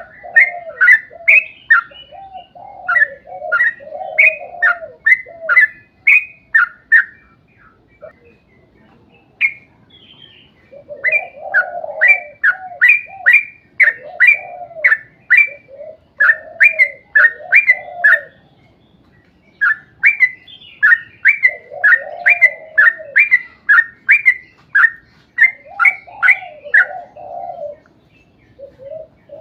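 Yellow-vented bulbul (trucuk) singing in long, rapid chattering runs: quick sharp chirps over lower bubbling notes, broken by short pauses about a third and two thirds of the way through and near the end.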